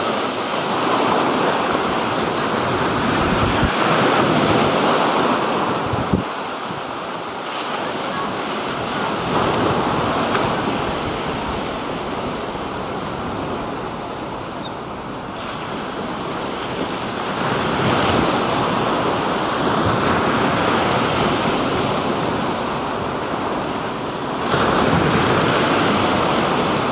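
Black Sea waves breaking on the shore, the surf swelling and easing every several seconds, with wind buffeting the microphone.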